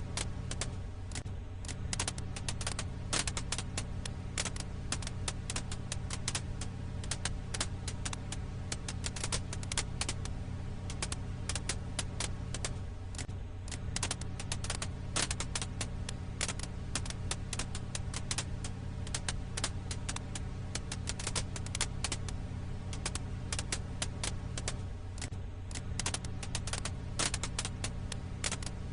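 Firewood crackling in a campfire: dense, irregular snaps and pops over a steady low rumble.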